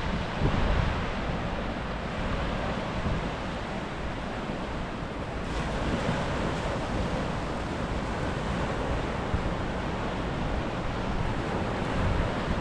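Sea surf washing onto a beach, a steady rushing, with wind buffeting the microphone in uneven low rumbles.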